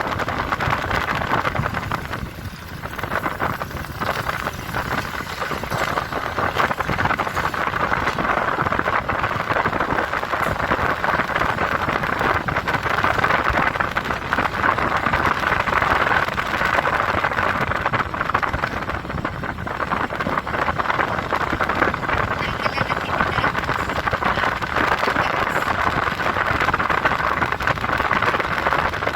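Steady rushing wind and road noise on the microphone of a moving motorcycle, like hiss, with no clear engine note.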